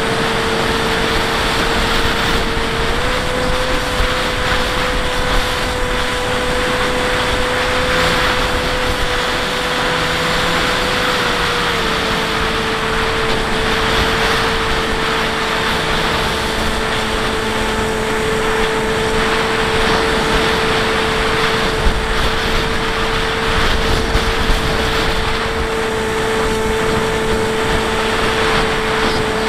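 Bixler 1.1 RC plane's electric pusher motor and propeller whining steadily in flight, over a heavy rush of air on the onboard camera. The pitch steps up slightly about three seconds in and drops back a little about twelve seconds in, as the throttle changes.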